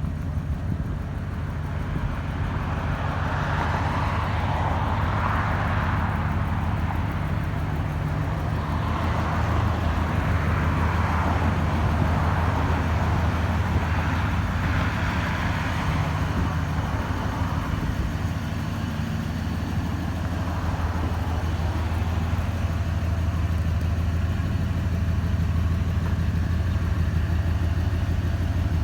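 1979 Ford F-100 pickup's engine idling steadily, with a hiss that swells and fades three times.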